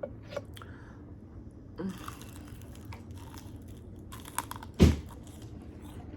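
Close-up eating of crispy air-fried chicken wings: scattered crunches and bites with chewing, and a single loud thump a little before the end.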